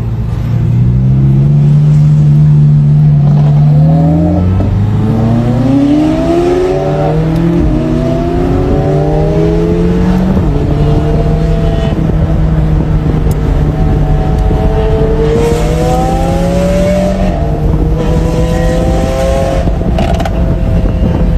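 Supercar engine and exhaust under hard acceleration, the pitch climbing in several sweeps through the gears over the first half, then running steadier at speed with a few shorter rises.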